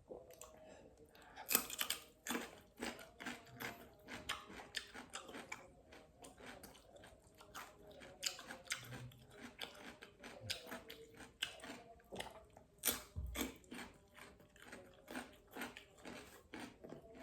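Close-up chewing and wet mouth smacking of a person eating fish, a quick string of small clicks and smacks several times a second, with a louder smack about a second and a half in and another near thirteen seconds.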